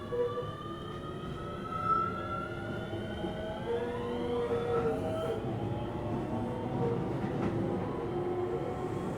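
Keio 7000 series electric train accelerating, its traction equipment giving a whine of several tones that climbs in pitch for the first four or five seconds. The whine then fades into steady wheel-on-rail running noise.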